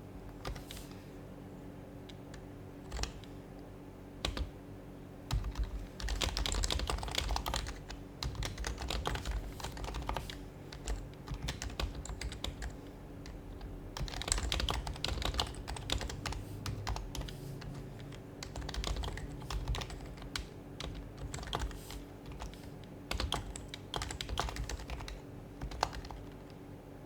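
Typing on an HHKB Professional Hybrid Type-S keyboard with its silenced Topre switches: a few single keystrokes, then bursts of fast typing from about five seconds in, broken by short pauses. A faint steady hum sits underneath.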